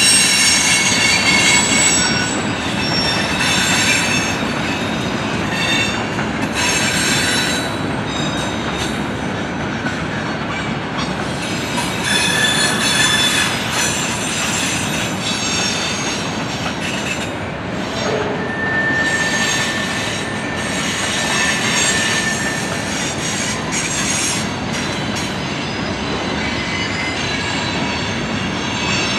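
Freight train cars (covered hoppers, tank cars, an autorack, boxcars) rolling past: a steady rumble of steel wheels on rail, with high, thin wheel squeals that come and go.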